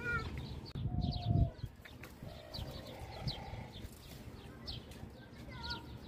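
Many birds chirping, with short high calls scattered throughout, and a brief low rumble about a second in.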